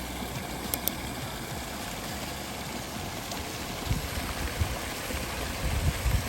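Mountain creek water running steadily, with a few low thumps about two-thirds of the way through and near the end.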